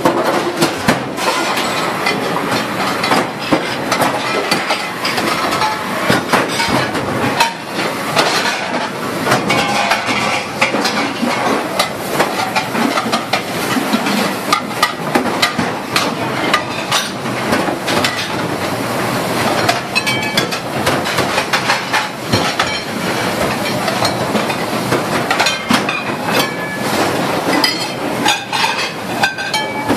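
Rapid, continuous clatter of dishes, pots, pans and utensils handled at a commercial dishwashing sink: many sharp clinks and knocks of metal and crockery, one after another.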